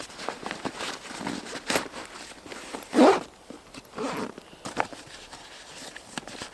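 Camping gear being handled and packed away: irregular rustles and scrapes with small clicks, loudest in a swish about three seconds in.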